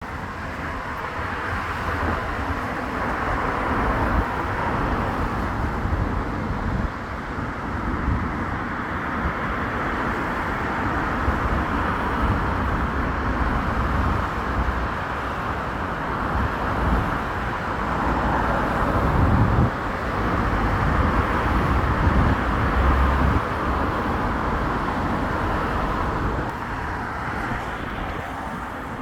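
Road traffic passing steadily: a continuous wash of car and truck tyre and engine noise, swelling for a few seconds past the middle as heavier vehicles go by.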